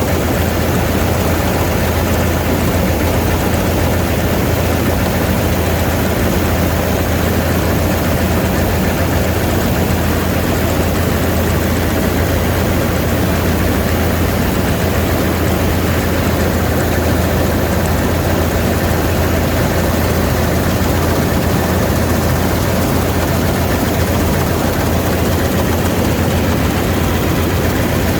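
Vistula KZB-3B combine harvester running steadily while cutting grain: a constant machine drone with a strong deep hum and no change in pace.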